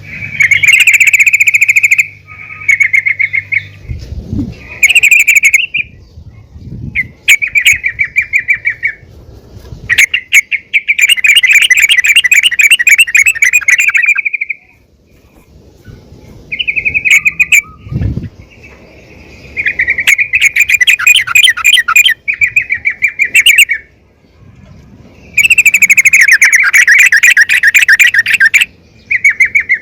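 Female yellow-vented bulbul (trucukan) calling in repeated phrases of fast, high chattering notes, each phrase lasting one to four seconds with short pauses between. It is a call used to draw other trucukan into calling.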